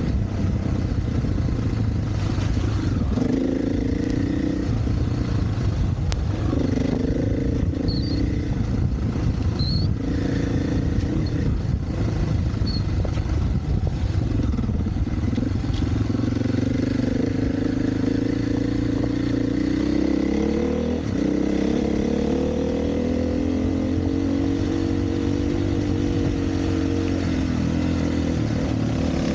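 Single-cylinder four-stroke dirt bike engine under way on a trail, its pitch rising and falling every few seconds as the throttle opens and closes.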